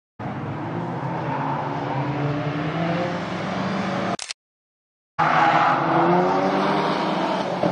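Renault Clio R.S. hatchback with its turbocharged four-cylinder engine, driving through the circuit's corners. Engine pitch rises and falls with throttle. The sound breaks off into dead silence for about a second midway, then returns louder with the revs climbing.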